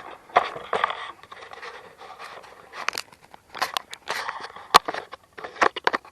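Irregular scraping, rustling and sharp clicks of close handling: the camera and parts being moved around in a small room.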